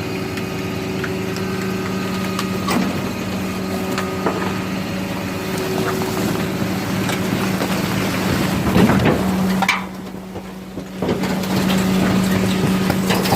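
Garbage truck's engine and hydraulic compactor running with a steady hum, while rubbish is crushed in the hopper with repeated sharp cracks and crunches. The sound drops off briefly about ten seconds in, then picks up again.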